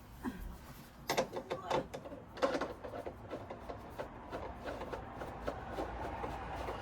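Sofa parts being handled and fastened during assembly: a few sharp knocks and clicks, then a quick run of small ticks.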